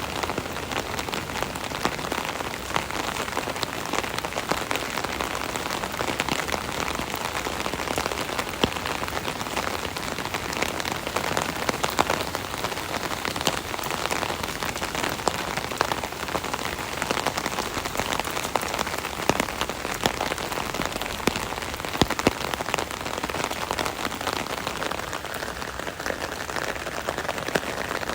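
Steady rain pattering on an umbrella canopy overhead, a dense even patter with many sharp individual drop hits.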